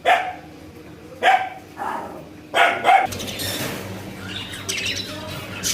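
A dog barking about five times in the first three seconds, single barks and then quick pairs. Then an abrupt switch to many small caged birds chirping and chattering.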